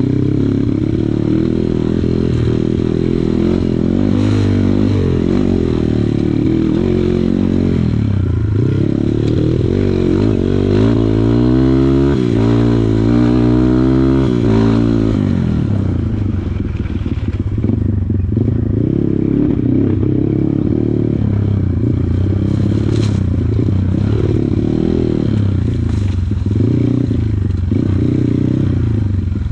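Kawasaki KLX140 dirt bike's single-cylinder four-stroke engine running under load, the revs rising and falling with the throttle, with a long climb in pitch about ten seconds in that drops away a few seconds later. Rattling and scraping sounds run under the engine.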